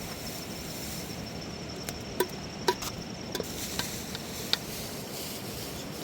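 A steady high insect trill over a constant background hiss, with a handful of sharp, irregular knocks about two to four and a half seconds in; the trill fades out about halfway through.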